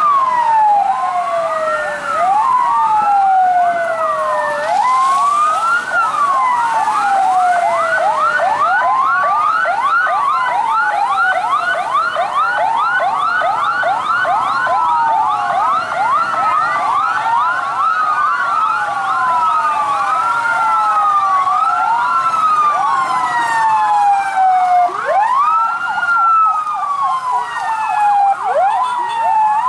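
Several fire truck sirens sounding at once and overlapping, slow wails that swoop down in pitch mixed with fast, rapidly repeating yelps.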